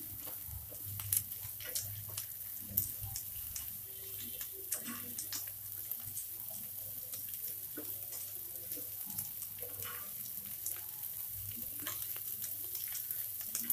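Shredded cabbage, carrot and capsicum sizzling in hot oil in a non-stick pan on high flame, stirred and tossed with a slotted spatula that scrapes and clicks against the pan now and then over a steady hiss.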